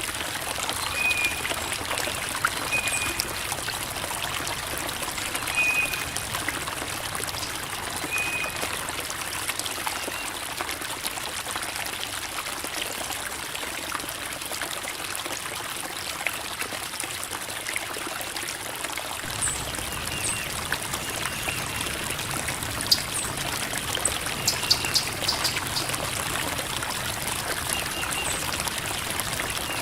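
Creek water babbling and trickling over rocks in a steady rush, with brief high notes now and then; the low part of the rush grows fuller about two-thirds of the way in.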